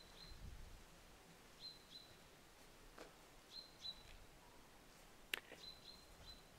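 Faint, high bird chirps: short calls in pairs, repeated every second or two, with a sharp click about five seconds in.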